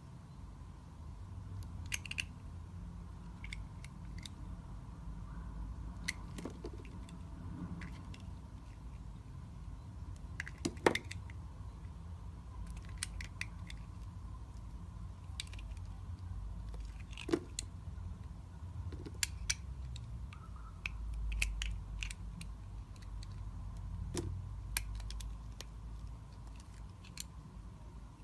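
Knife cutting and carving a bar of soap: crisp, sharp clicks and crackles at irregular intervals, the sharpest about eleven seconds in, over a low steady hum.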